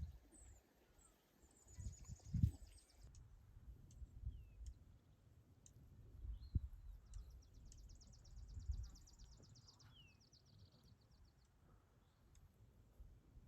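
Faint outdoor birdsong: scattered short chirps and a fast buzzy trill about seven seconds in, over a low rumble.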